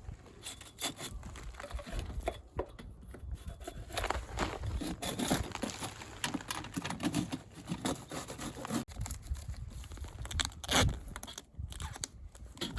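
Irregular scraping, crackling and tearing sounds with scattered light knocks, with a louder knock near the end.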